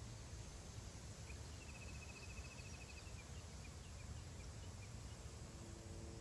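Wind rumbling over open grassland, faint, with a small bird's rapid high trill about a second and a half in, followed by a few scattered chirps. Near the end a faint steady low hum begins.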